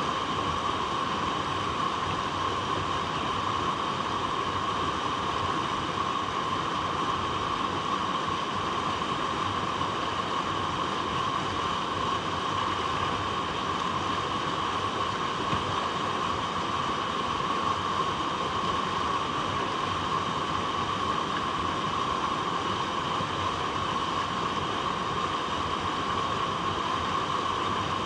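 Water flowing steadily over rocks: an even, unbroken rushing with no changes.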